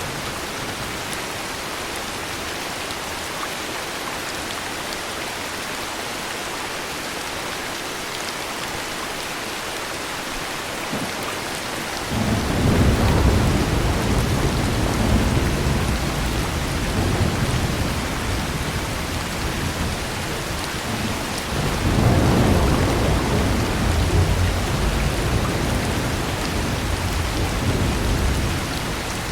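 Steady heavy rain, with thunder rumbling twice: a deep roll breaking in suddenly partway through and dying down, then a second swelling some ten seconds later and fading near the end.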